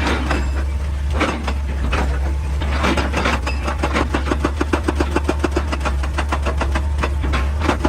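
Heavy excavator's diesel engine running steadily, with a fast, regular series of sharp knocks, several a second, through the second half.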